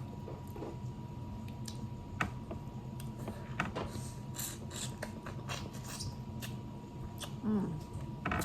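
Close-up eating sounds from a seafood boil: scattered sharp clicks and cracks of crab and shrimp shells being broken, with wet chewing and smacking.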